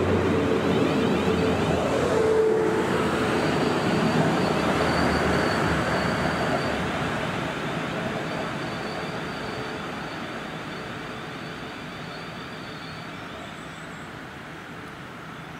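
Class 450 electric multiple unit pulling away from the platform: wheels on rail and the motor whine of the train, loud at first and then fading steadily as it draws off into the distance.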